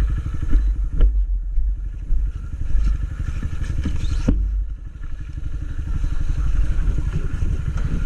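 Honda CG Titan 160 single-cylinder motorcycle engine running at a steady idle, with a couple of sharp clicks, then rising slightly in level toward the end.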